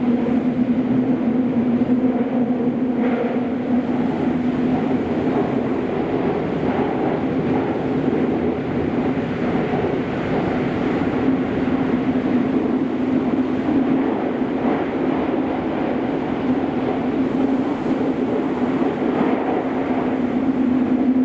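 Kobe City Subway 5000-series linear-motor train running steadily between stations through the Kaigan Line tunnel, heard inside the car: an even running rumble with a constant hum.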